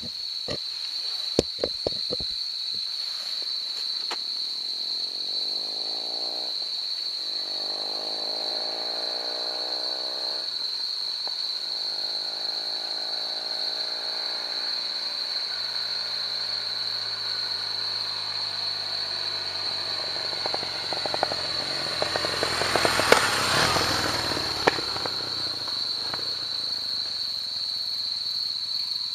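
Kawasaki W-series parallel-twin motorcycle with an aftermarket muffler riding by. Its engine note rises and falls through the gears in the distance, then grows louder, is loudest about 23 seconds in as it passes close, and fades away.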